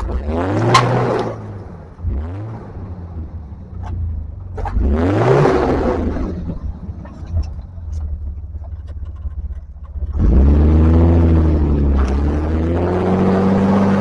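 Off-road 4x4's engine revving in bursts over a steady low rumble: a short rev about half a second in, another around five seconds, then a longer, louder rev held from about ten seconds on, as the rig tries to climb an obstacle without enough run-up.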